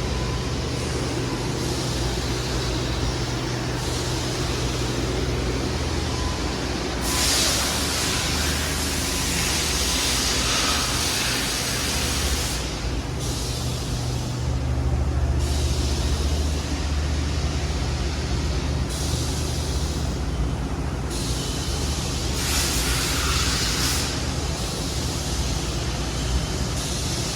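Jyoti TS 120 twin-spindle CNC chucker lathe running: a steady low motor hum under a haze of machine noise, with a few bursts of hissing, about seven and twenty-two seconds in.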